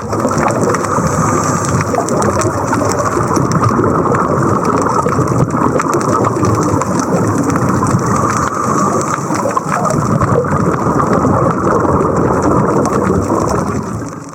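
Dense rushing and crackling bubble noise from a scuba diver's exhaled air, recorded underwater. It drops away sharply near the end.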